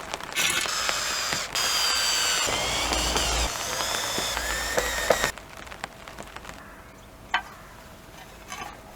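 A handheld power tool running with a wavering high whine for about five seconds, then cutting off suddenly; afterwards only light clicks and knocks.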